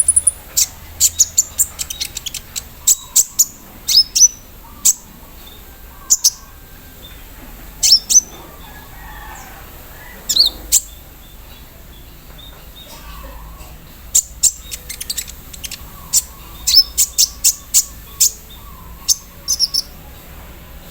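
Brown-throated sunbird (kolibri ninja) calling: sharp, very high chips and short trills in scattered bursts, with a denser run of notes near the end.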